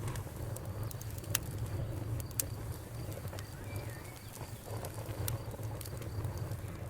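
Wood fire burning in a fireplace: a steady low rumble of flames with scattered crackles and a few sharp pops, the loudest about one and a half and two and a half seconds in.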